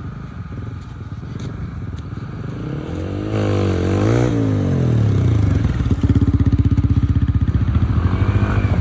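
Motorcycle engine running. About three seconds in it revs up and drops back, then it runs louder and steady with a fast, even beat.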